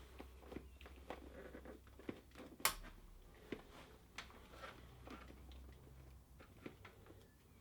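Light scattered clicks, knocks and rubbing as a bank of motorcycle carburettors is rocked and pushed into its rubber intake boots, with one sharper knock a little over two and a half seconds in.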